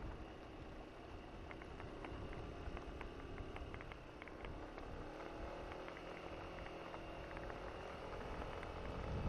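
Honda SH150i scooter's single-cylinder four-stroke engine running at a steady cruise, with rumble and scattered small ticks from the tyres on a gravel road, under wind noise.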